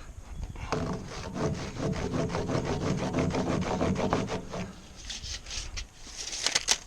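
Handsaw cutting through a timber railway sleeper in quick, even back-and-forth strokes, with a few louder, sharper strokes near the end.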